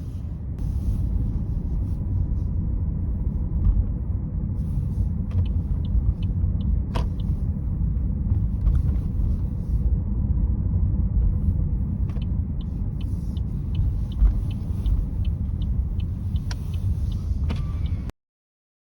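Steady low rumble of a Chevrolet Trailblazer driving on the road, with light ticking over parts of it. The sound cuts off abruptly near the end.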